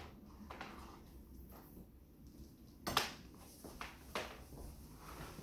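Quiet room tone broken by one sharp click or knock about three seconds in, followed by a couple of fainter ticks.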